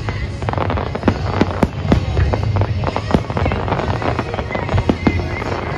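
Fireworks display: aerial shells bursting in quick succession, sharp bangs and crackles over a continuous low rumble of booms.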